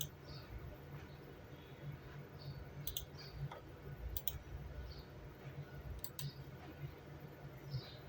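Sharp clicks in quick pairs, four pairs a second or more apart, over a low steady hum.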